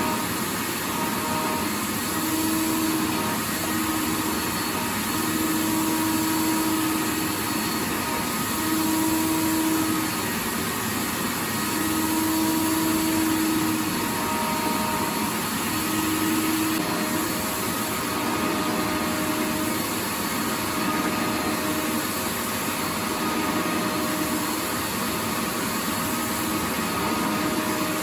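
Vacuum cleaner running steadily: a continuous rushing hiss with a thin steady whine, and a lower hum that keeps dropping out and coming back.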